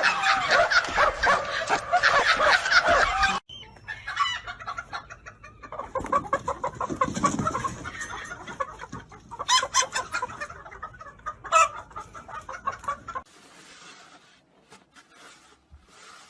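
Chickens clucking, with a rooster crowing. The sound is loudest in the first few seconds, cuts off abruptly, and goes on as quieter, scattered clucks before fading low near the end.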